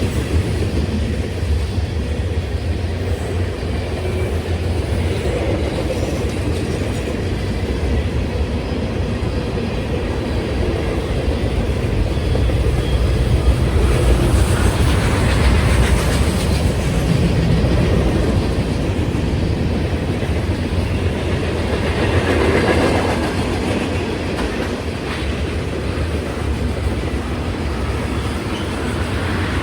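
Freight cars of a long CSX manifest train rolling past on jointed track, wheels clattering over the rail joints in a continuous heavy rumble that swells and eases as cars go by.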